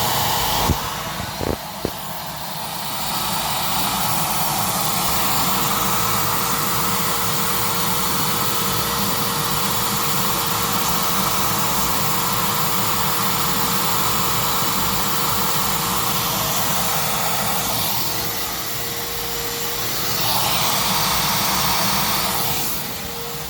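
CNC machine running, its spindle cutting Delrin blocks: a steady whirring noise with a steady hum. The sound drops in level briefly about two seconds in and again around eighteen seconds in, with a few light clicks near the start.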